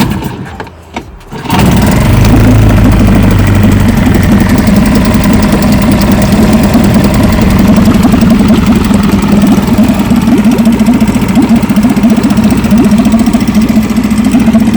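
Outboard motor, choke out, catching about a second and a half in and then running steadily.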